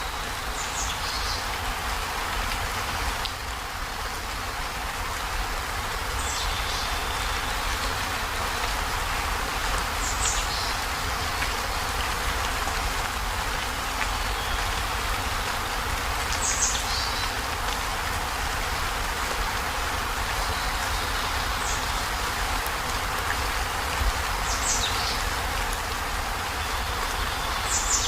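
Heavy rain falling steadily on a zinc roof. A short high chirp recurs every few seconds above the rain.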